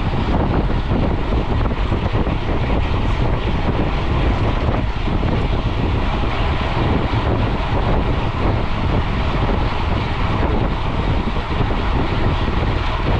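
Steady wind rushing over an action camera's microphone, mixed with the rumble of mountain-bike tyres rolling at speed on a paved road.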